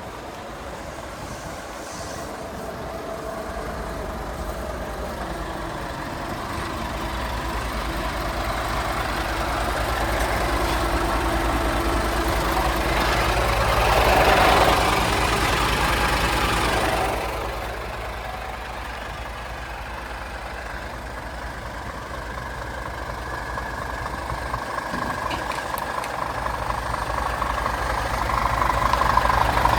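Scania G500's 13-litre straight-six diesel running. It swells gradually to a louder, hissier stretch about halfway through, falls back, then builds again near the end.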